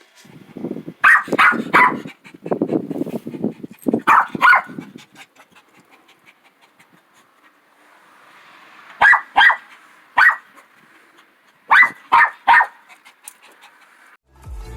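Small chihuahua-pug mix dog barking in short groups of two or three sharp barks, with low rough sounds between the barks in the first few seconds.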